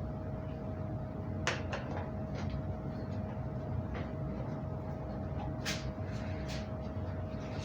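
A few light clicks and knocks of something being handled, over a steady low hum with a faint high steady tone.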